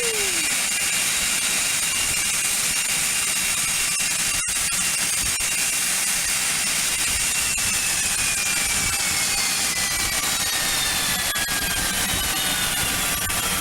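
Learjet's jet engines running close by: a loud, steady hiss with a high whine. About halfway through, the whine starts to fall slowly in pitch as the engines spool down.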